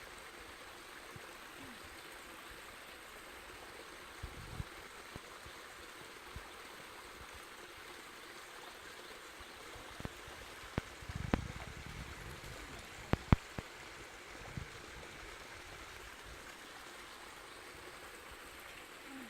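A steady, even rushing hiss of outdoor ambience with a few sharp clicks and knocks scattered through it, the loudest two close together about 13 seconds in.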